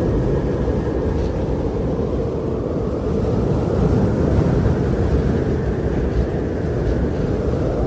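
Steady wind blowing, a deep, even noise with no breaks or distinct events.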